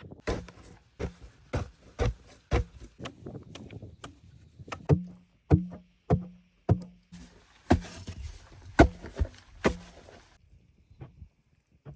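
A hand tool striking wood over and over, about two blows a second, with several blows in the middle leaving a short low ring. The blows stop about ten seconds in.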